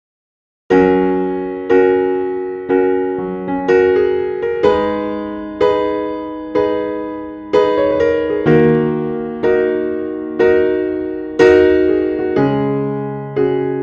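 Background music: a slow piano piece starting a little under a second in, with a chord struck about once a second and left to ring and fade.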